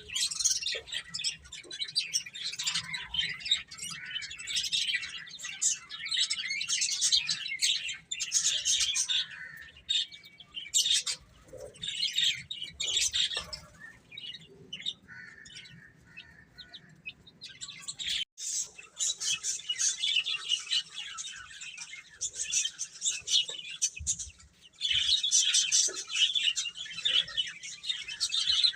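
A group of baby chicks peeping, many high chirps overlapping. The peeping thins out for a few seconds around the middle, then picks up again and is densest near the end.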